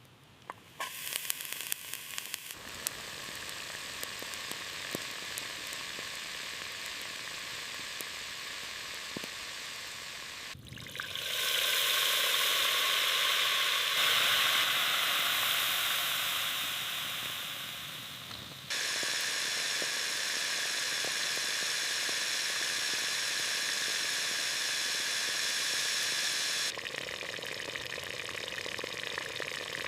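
Food sizzling as it fries in a hot pan: a steady frying hiss that changes in loudness and tone abruptly several times, loudest in the middle.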